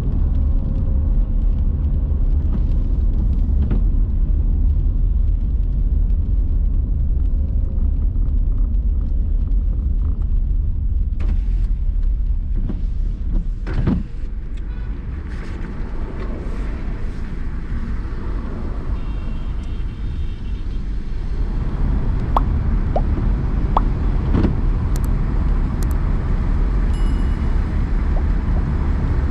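Car driving on city roads: a steady low rumble of road and engine noise, with a sharp knock about halfway through.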